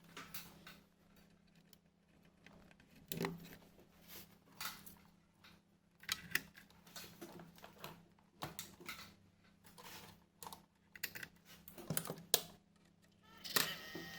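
Scattered clicks and knocks of a graphics card being handled and seated into a desktop motherboard's PCIe slot. Near the end the computer powers up and a steady hum starts.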